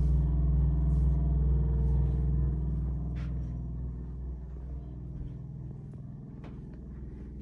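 Low, steady mechanical hum that fades away over a couple of seconds about three seconds in, with a few faint clicks.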